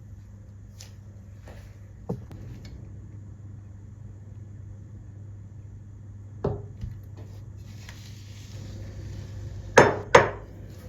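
A few sharp knocks of hard objects, the loudest two in quick succession near the end, over a steady low hum.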